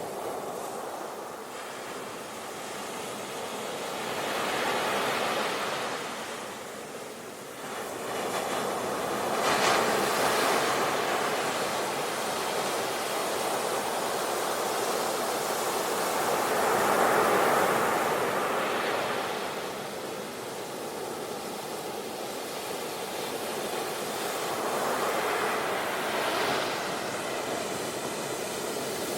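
Sea waves breaking on the shore, the surf swelling and easing every several seconds, with one sharper crash about nine seconds in.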